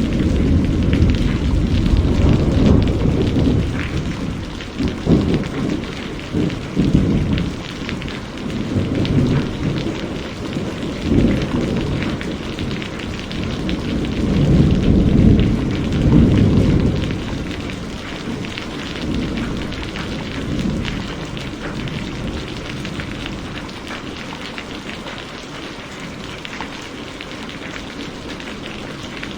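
Heavy rain falling steadily as a dense hiss, with rolling thunder rumbling underneath in several swells. The strongest swells come at the start and again about halfway through, and the thunder fades in the last third.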